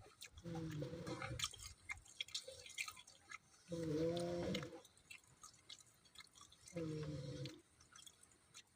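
A person chewing food close to the microphone, with small wet clicks and smacks. Three short low hums of about a second each, about three seconds apart, sit over the chewing.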